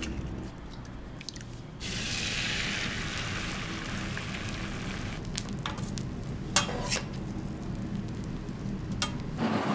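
Food sizzling on a hot griddle. The sizzle starts abruptly about two seconds in and slowly dies down, with a few sharp clicks and a steady low hum underneath.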